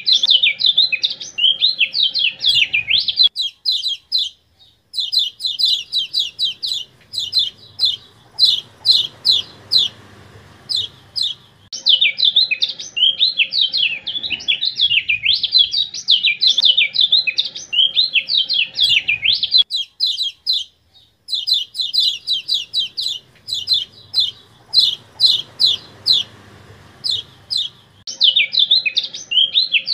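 Kecial kuning, a white-eye, singing a fast, continuous twittering song. It alternates between tumbling warbled phrases and runs of rapid repeated sharp notes, with the same phrases recurring, and breaks off briefly twice.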